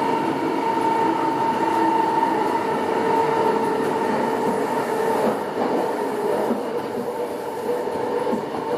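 CityRail electric passenger train running through a tunnel, heard from inside the carriage: a steady rumble of wheels on rail with a steady whine over it. It eases off a little after about five seconds as the train nears the tunnel mouth.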